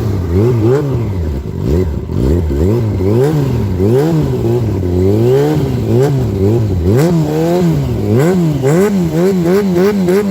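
Sport motorcycle engine being revved up and down again and again, the throttle blipped about once a second so the pitch keeps rising and falling.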